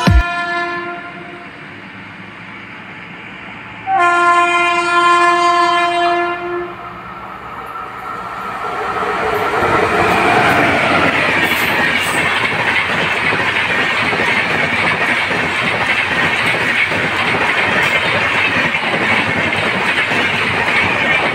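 Indian Railways WAP7 electric locomotive's horn sounds one long blast about four seconds in. The locomotive and its passenger coaches then roll past at speed, a steady rush of wheels on rail that builds up and holds.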